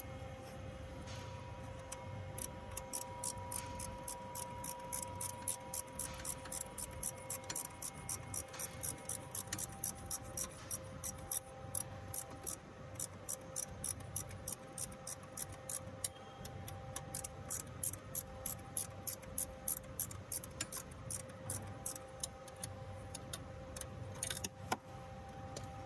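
A long even run of sharp ticking clicks, about three a second, over a faint steady hum; the clicks stop a few seconds before the end, with one louder click after them.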